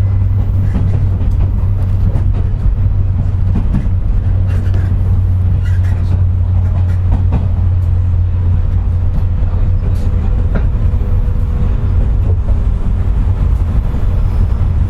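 Running noise of a JR West 201-series chopper-controlled electric train, heard inside motor car MoHa 201-280 while it runs slowly: a steady low drone with rumble and scattered clicks over the rails. The car's motor bearings are pitted by electrical erosion, which gives it a jet-like whine when running.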